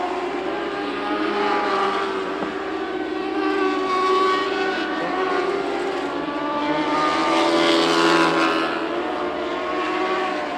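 Several Lightning Sprint race car engines running hard at racing speed, their pitches rising and falling as the cars circulate and pass.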